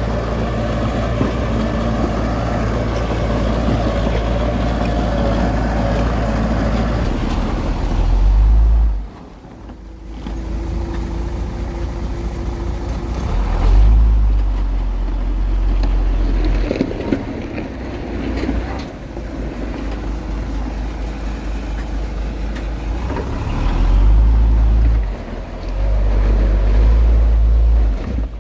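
A heavy diesel engine on earthmoving machinery running hard, with loud surges of revving about 8 s in, about 14 s in, and again near the end. The engine drops off sharply about 9 s in.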